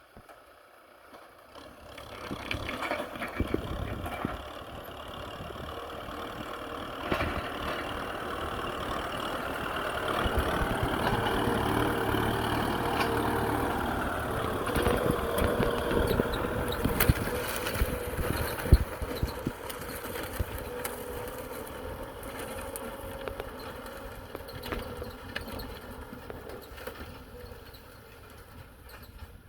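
Kubota M6040SU tractor's diesel engine running, growing louder over about ten seconds and then slowly fading away.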